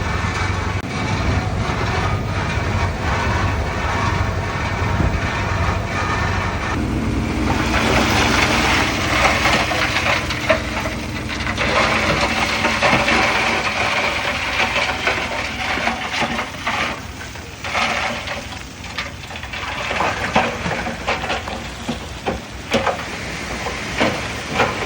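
Heavy diesel earthmoving machinery running steadily. After several seconds a rushing, crunching noise of soil and rock joins in, with repeated clanks and cracks.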